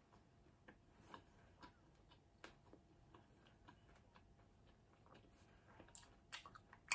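Near silence with faint, scattered clicks of quiet chewing and mouth sounds while eating fried fish.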